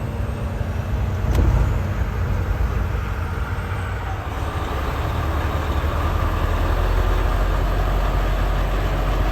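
Steady engine and road noise from inside the cab of a car-hauler truck driving on the highway, with one short knock about a second and a half in and the noise growing slightly louder in the second half.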